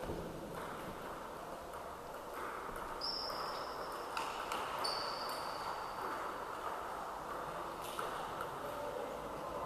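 Table tennis ball giving a few scattered sharp clicks off bat and table, with two short high squeaks about three and five seconds in, over a steady background hum.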